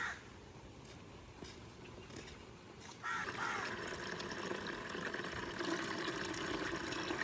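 A brief high sound at the very start, then, about three seconds in, water starts pouring into a container and runs steadily for about four seconds.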